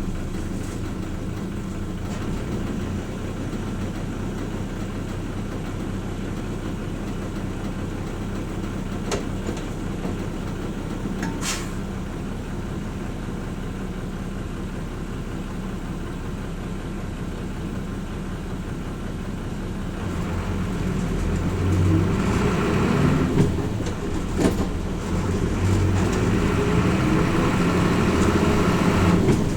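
Hino Rainbow RJ city bus's diesel engine running at a steady low speed, with two short clicks about 9 and 11 seconds in. About 20 seconds in the engine speeds up and gets louder, rising in pitch as the bus pulls away.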